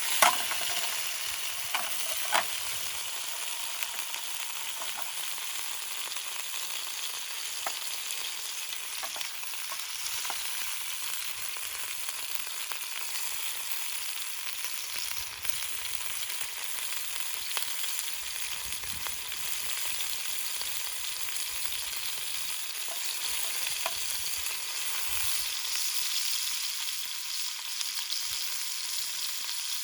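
Food sizzling steadily in a pan over a campfire, with scattered sharp clicks and pops; the loudest click comes just after the start.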